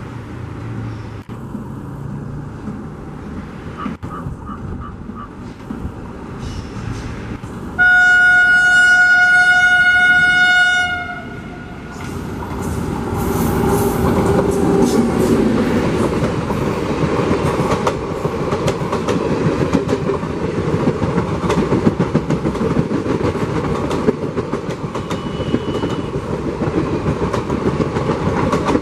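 WAP7 electric locomotive sounding its horn in one long blast of about three seconds as it approaches. The locomotive and its coaches then pass close by: a loud, steady rumble of wheels on rail with rapid clickety-clack as the coaches roll over the rail joints.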